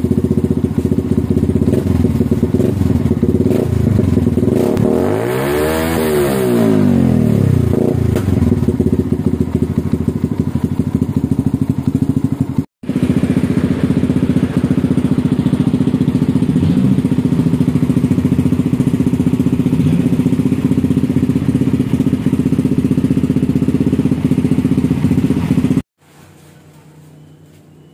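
Yamaha Vixion motorcycle's single-cylinder engine running loudly at a steady idle through an aftermarket Norifumi Roket 4 exhaust. About five seconds in it gives one rev that rises and falls back. The engine sound drops out briefly near halfway, then stops near the end, leaving only faint background.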